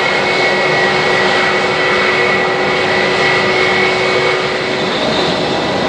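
Jet airliner engines running: a steady loud rush with a high, thin whine over it, and the whine fades out near the end.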